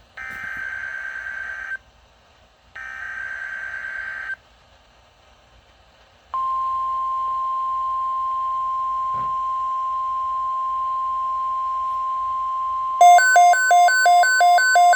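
NOAA Weather Radio emergency alert. It opens with two buzzing bursts of SAME digital header data, each about a second and a half long, then after a short pause the steady single-pitched 1050 Hz warning alarm tone. Near the end a rapid pulsing beep, about three beeps a second, starts over the tone.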